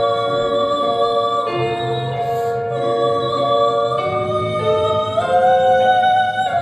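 A female voice singing a song over instrumental accompaniment, ending on a long held note with vibrato.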